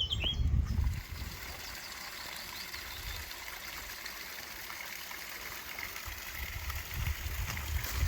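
A brook flowing and trickling steadily. A low rumble comes in at the start and again near the end.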